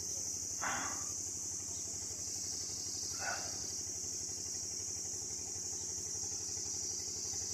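Outdoor ambience: a steady high-pitched insect drone over a low engine hum like a motorcycle idling, with two brief rustles, about a second in and again about three seconds in.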